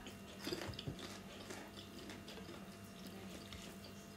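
Faint close-up chewing: soft wet mouth clicks and ticks from a person eating with the mouth closed, over a low steady hum.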